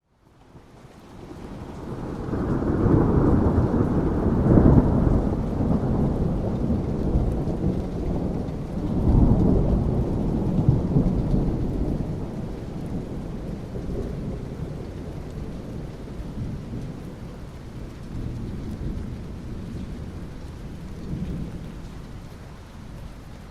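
Thunder rolling over steady rain: a deep rumble swells up from quiet over the first few seconds, surges again about nine seconds in, then slowly dies away, leaving the rain.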